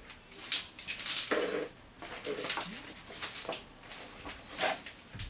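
Metal gear being handled, clinking and rattling: a dense run of clinks in the first couple of seconds, then scattered lighter clicks.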